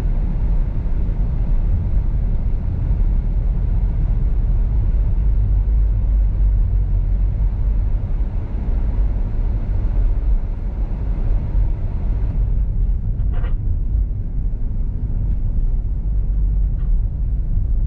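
Steady low rumble of road and engine noise inside a moving car's cabin, driving on a snow-covered road.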